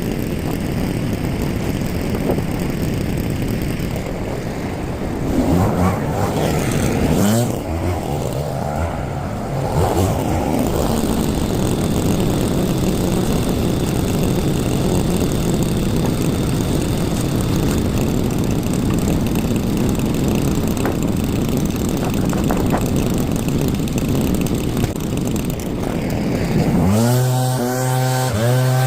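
Small petrol two-stroke engine of a garden power tool running continuously. Its pitch rises and falls with the throttle several times, and it settles into a steady, even drone near the end.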